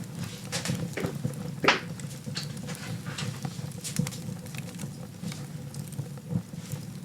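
Wood fire burning in a fireplace: irregular crackles and small pops over a steady low rumble of flames, with one louder pop nearly two seconds in.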